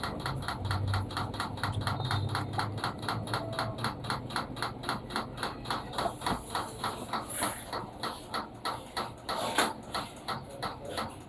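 Panasonic washing machine running, a steady rhythmic beat of about four strokes a second over a low motor hum that fades out after about three seconds.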